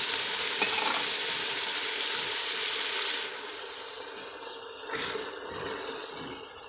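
Cut tinda (round gourd) pieces sizzling in hot masala in a pressure cooker pot. The sizzle is loud for about three seconds, then drops sharply to a quieter sizzle, with light scrapes and knocks of a wooden spoon stirring.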